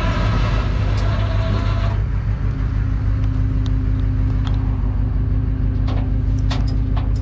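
Rollback tow truck's engine running at low idle, without the high idle engaged, as the hydraulic bed is worked. A hiss with a thin tone sounds for the first two seconds, then a steady hum joins the engine, with a few light clicks near the end.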